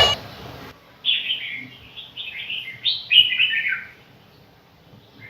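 Small bird chirping: a quick run of short, high notes, many sliding downward, from about a second in to about four seconds in.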